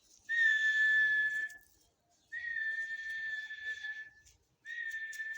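Three long whistled notes, all at the same high pitch, each held steady for one to two seconds with short gaps between, each starting with a slight upward slide and carrying a breathy edge.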